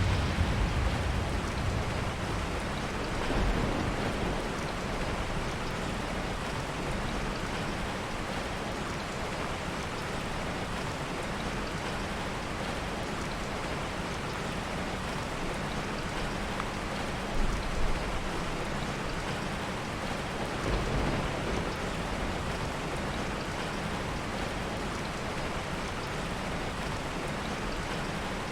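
Steady heavy rain, with a low rumble of soft distant thunder dying away at the start and a few brief low rumbles later.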